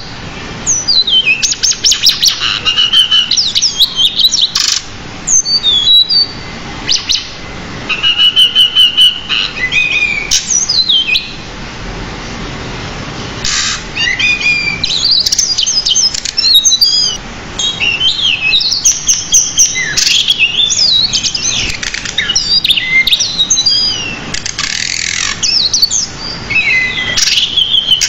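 Pied bushchat singing a long, fast, varied song of whistles and chirps, packed with many fill-in phrases, with a pause of about two seconds near the middle.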